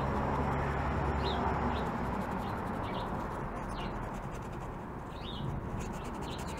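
Small birds chirping outdoors: short chirps every second or so over a steady background noise.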